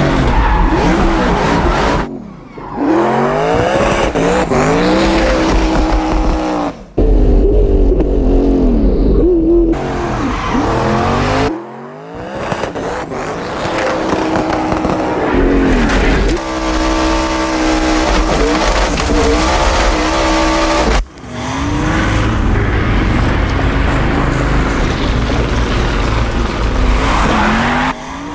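Race car engine revving hard, its pitch repeatedly rising and falling, with tyres squealing, in short segments joined by abrupt cuts.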